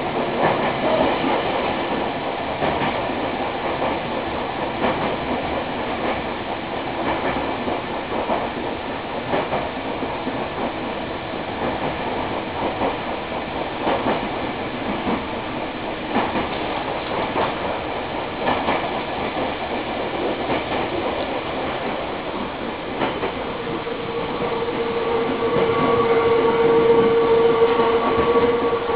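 Nankai Kada Line electric train running, heard from inside the passenger car: a steady rumble of wheels on rail with irregular clicks over rail joints. A steady whine comes in about five seconds before the end and grows louder.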